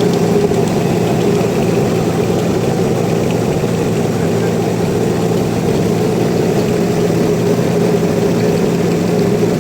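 Sawmill engine running steadily at an even speed, a constant drone with no revving or cutting strokes.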